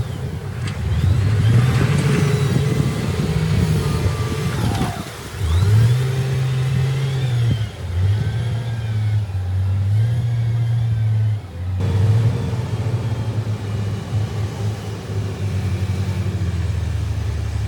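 Diesel engine of heavy earthmoving machinery running under load, its pitch rising and falling again and again as it revs. The sound changes abruptly about twelve seconds in.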